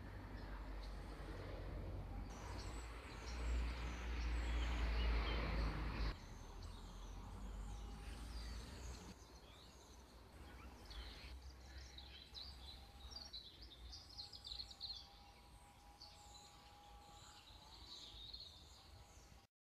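Outdoor ambience: birds chirping on and off, over a low rumble that is strongest in the first six seconds and then drops off sharply.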